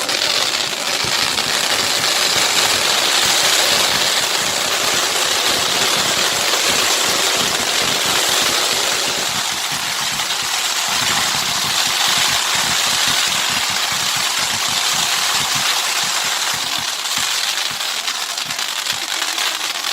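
Fireworks going off in a continuous stream of loud hissing and dense, rapid crackling, thinning slightly in its lower part about halfway through.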